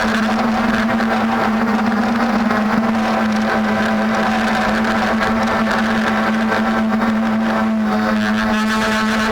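DJI F450 quadcopter's brushless motors and propellers running at a steady speed, giving a loud, even hum with overtones. It is the strange noise that the owner suspects comes from the motors.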